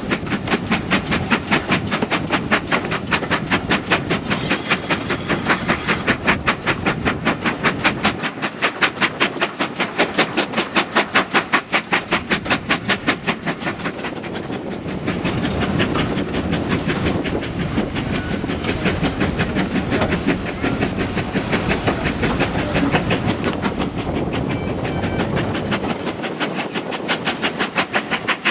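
Steam train running, with a fast, even rhythm of beats that grows less distinct for a few seconds about halfway through.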